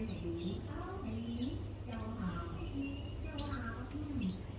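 A steady high-pitched insect drone, like cicadas or crickets, with a few short bird chirps over it and faint low voices murmuring underneath.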